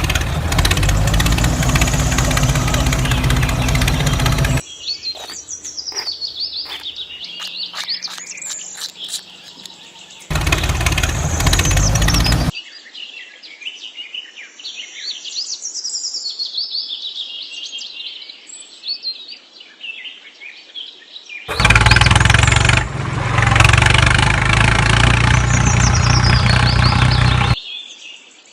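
Birds chirping and tweeting in quick, high, gliding calls. The chirping is broken three times by several seconds of much louder sound; the first of these stretches is music.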